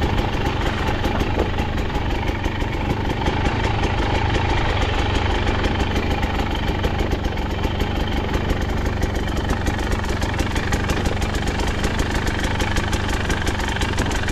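KTM 250XC-W two-stroke dirt bike engine running steadily, with no big revs, as the bike rides down a trail.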